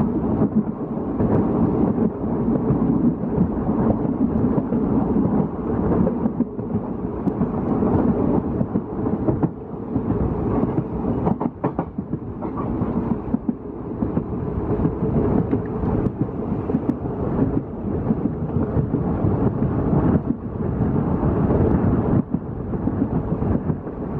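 Passenger train coach running at speed, heard from its open doorway: a steady rumble of wheels on rail mixed with rushing air, with a few sharp clicks about halfway through.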